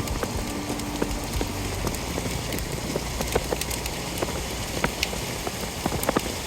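Rain on a car: a steady hiss with scattered sharp ticks of drops striking.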